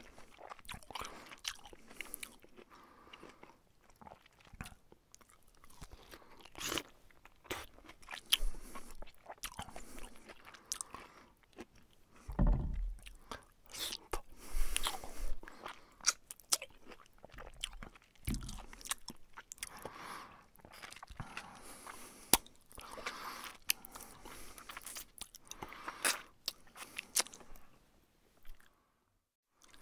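A man chewing a mouthful of taco up close, with irregular wet crunching and smacking of the mouth. A couple of low thumps come about twelve and eighteen seconds in.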